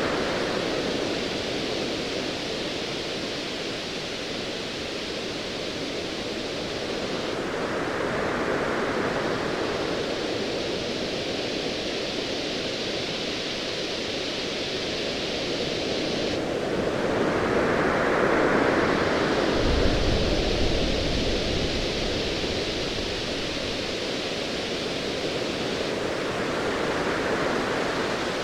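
Ocean waves: a steady rushing hiss of surf that swells and falls back roughly every nine to ten seconds. About twenty seconds in, a short low rumble of distant thunder sits under the surf.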